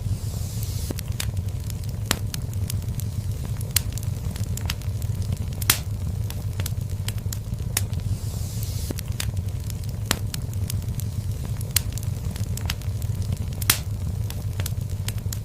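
Wood fire in a fireplace crackling, with frequent sharp irregular pops over a low steady rumble. Two brief hisses rise from the fire, one near the start and one about eight seconds in.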